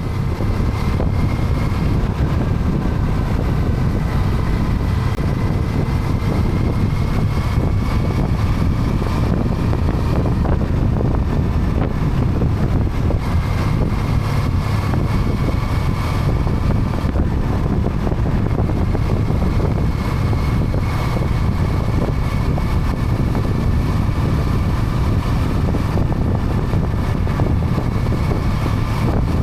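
Triumph motorcycle riding at a steady speed: wind rushing over the microphone over a faint, slowly shifting engine hum.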